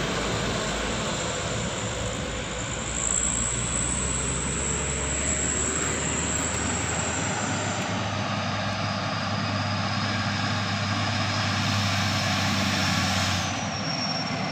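Diesel truck engine running steadily as a truck passes, with a broad rushing noise. Its low note steps up in pitch about halfway through.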